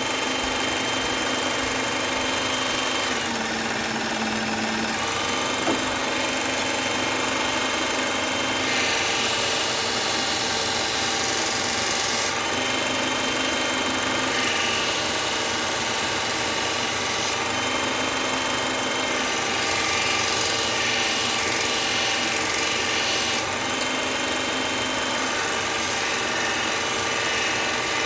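Powered knife-sharpening machine running steadily, its motor giving a constant hum, with a brighter grinding hiss swelling and fading every few seconds as a kitchen knife blade is worked against it.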